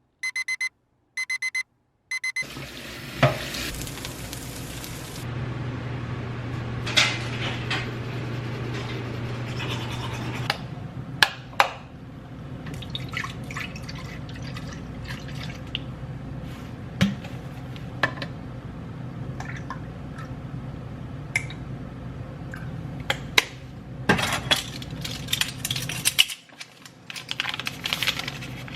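An electronic beeper sounds in short repeated pulses for about two seconds. Then a steady rushing noise with a low hum sets in, broken by scattered sharp clicks and knocks, which come thicker near the end.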